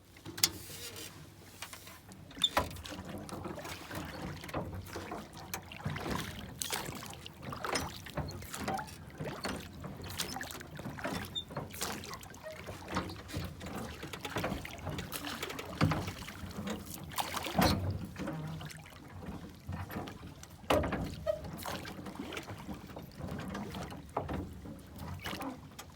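Water sloshing and splashing around a small boat, with many irregular knocks and clunks throughout.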